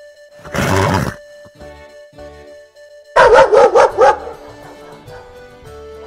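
Background music, with two loud animal calls over it: a short harsh blast about half a second in, and about three seconds in a rapid wavering call of about six quick pulses lasting under a second.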